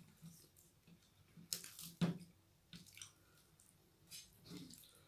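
Faint wet chewing and mouth sounds of someone eating soft rice: a few scattered soft clicks and squishes.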